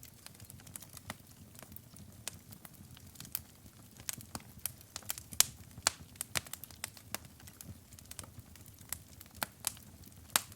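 Wood fire in a fireplace crackling: irregular sharp pops and snaps over a low steady background. The pops come thickest about halfway through, with a few louder ones near the end.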